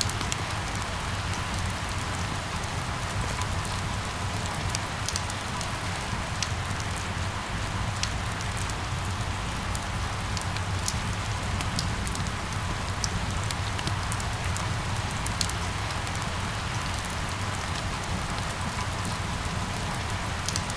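Steady rain falling on hard surfaces, with scattered sharp drop ticks over a constant hiss and a low steady rumble underneath.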